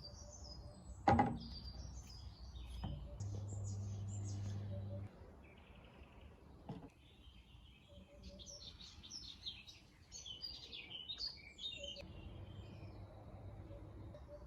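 Small birds chirping and twittering on and off, with a sharp knock about a second in and a steady low hum for about two seconds a little later.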